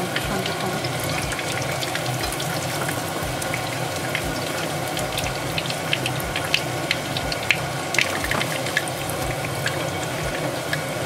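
Breaded salmon cutlets shallow-frying in hot oil in a frying pan: a steady sizzle with frequent sharp crackles and pops, a few louder ones in the middle.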